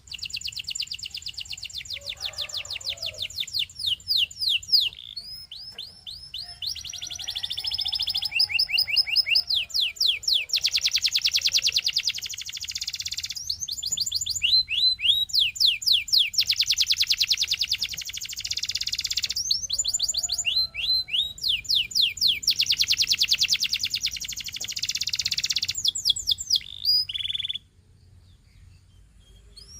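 Belgian singing canary singing a long song of fast, high-pitched trills and rolls, in phrases broken by short pauses, stopping abruptly near the end.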